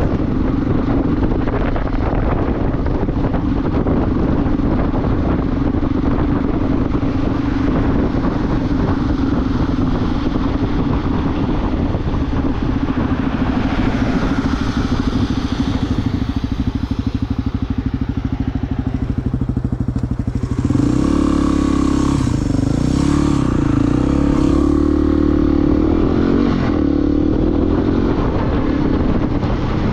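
Motorcycle engine running while riding, a steady hum at first; about two-thirds of the way through its pitch starts rising and falling as the engine is revved up and down.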